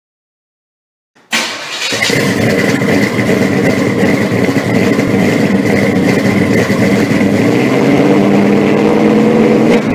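A car engine starting about a second in, then running loud and steady with a thin high whine above it, its pitch rising slightly near the end.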